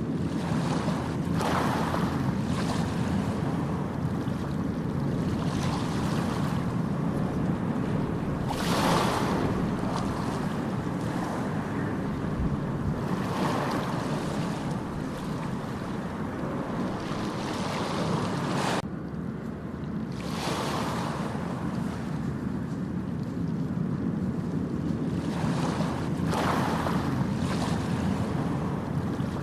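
Ocean surf breaking and washing up a beach, a swell of surf every few seconds over a steady low rumble. The higher hiss drops off suddenly about two-thirds of the way through, then the surf builds again.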